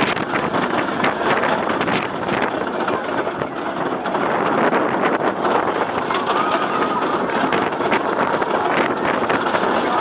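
Arrow suspended roller coaster train running along its steel track, with a steady rattling clatter of wheels and cars. A faint high squeal comes briefly about six seconds in.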